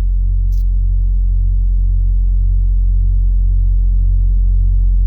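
Steady deep low drone of layered sustained tones, a background ambient drone bed, with a short hiss about half a second in.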